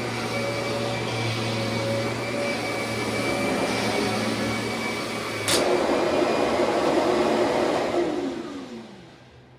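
Kirby upright vacuum cleaner running with a steady motor hum. About halfway through there is a sharp click and the sound changes and gets louder, then the motor winds down with a falling pitch and stops near the end.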